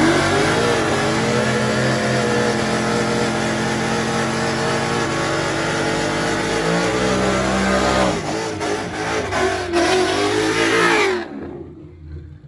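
Cars racing: an engine at full throttle under hard acceleration, with a gear change about eight seconds in, then the sound drops away near the end.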